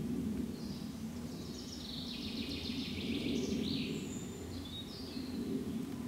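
Birds singing in the dusk woodland, short high phrases coming and going over a steady low rumble.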